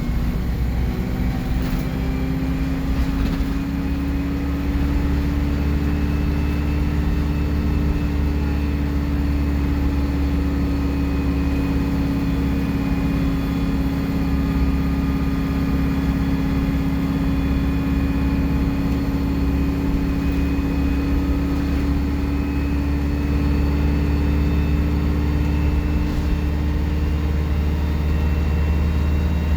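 Alexander Dennis Enviro 200 bus engine running steadily under way, with a whining turbo whistle above a low engine drone. The whistle rises slightly in pitch over the first few seconds, then holds steady.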